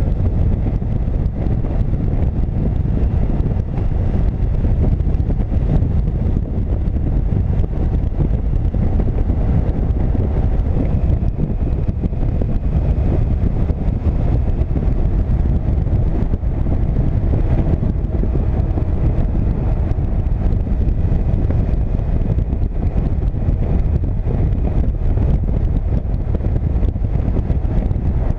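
Wind rushing over the microphone of a moving motorcycle on the highway, with a steady low drone of engine and road underneath. Faint steady tones come in about a third of the way through.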